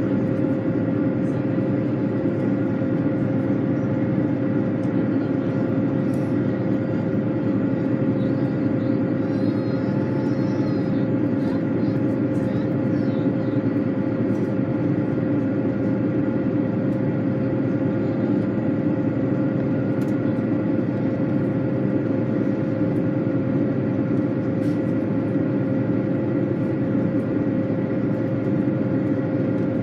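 Steady, unchanging mechanical running noise with a constant hum.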